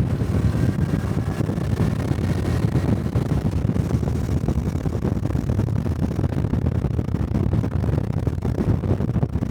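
Honda Cub 125 cc single-cylinder motorcycle engine running at a steady cruise while riding, with wind noise on the microphone.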